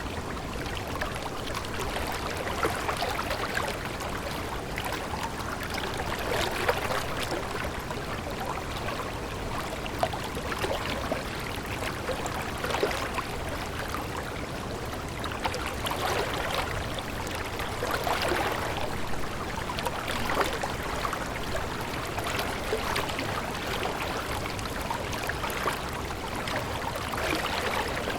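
Running water babbling and splashing steadily, a stream flowing over stones with dense little gurgles and trickles.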